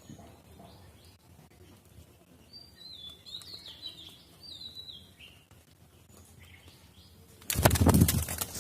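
A small bird chirping a quick run of short, high notes. Near the end comes a sudden loud rustling burst lasting about a second.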